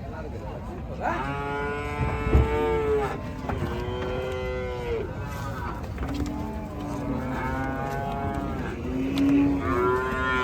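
Cattle mooing: four long, drawn-out calls one after another, the third lower in pitch than the others.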